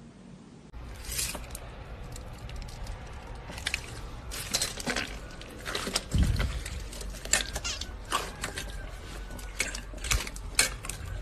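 Slime being squeezed and pressed by hand: irregular sticky clicks and crackles, starting about a second in, with one heavier squelch about six seconds in.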